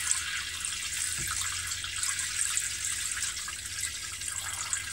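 Water pouring into a sailboat's bilge: a steady splashing hiss. The automatic bilge pump is not running, since not enough water has collected to lift its float switch.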